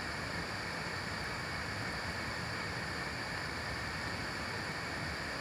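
Steady, even rushing of water outdoors, with no pauses or distinct events.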